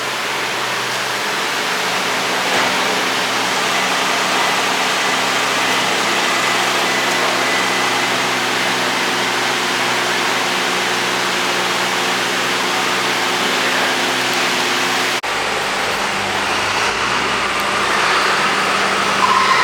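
Car engine running at a steady speed amid city street traffic noise; about fifteen seconds in, the sound cuts abruptly to a different stretch of traffic noise.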